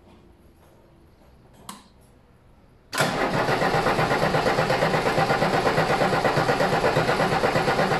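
A diesel car engine turning over on its starter motor, beginning suddenly about three seconds in with a steady, even pulse of compression strokes, six or seven a second. The engine has sat unstarted for ten years and is being cranked to draw fuel through the newly bled lines.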